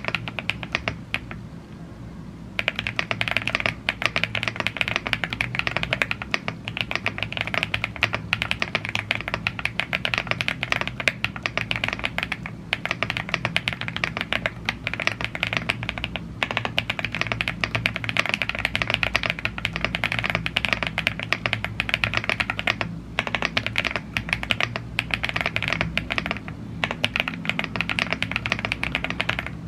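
Fast continuous typing on a YUNZII AL75 gasket-mounted aluminium mechanical keyboard with Blue Grey tactile switches and PBT keycaps, dense key clacks with a brief pause about two seconds in.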